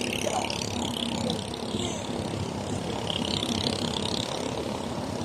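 A ship's engine running steadily, heard as a continuous low rumbling drone.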